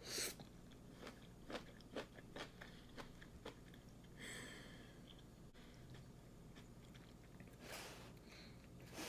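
Faint, close-miked eating of instant ramen: soft chewing clicks about twice a second, then a short hiss a little past four seconds in.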